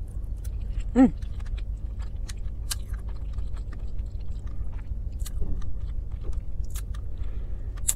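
Close-up chewing of a mouthful of seasoned green beans, with many short wet mouth clicks and a brief voiced "mm" about a second in, over a steady low rumble.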